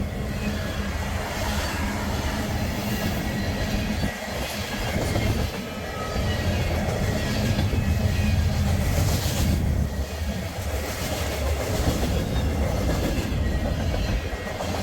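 Freight train cars rolling past, a steady rumble with the wheels clicking over the rail joints.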